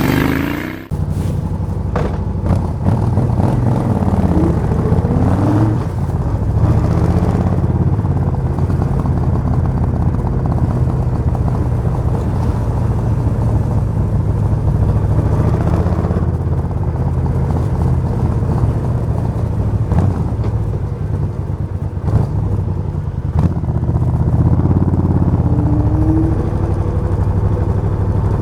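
Suzuki VS 1400 Intruder's V-twin engine running steadily, blipped up in revs a few times, once a few seconds in and again near the end.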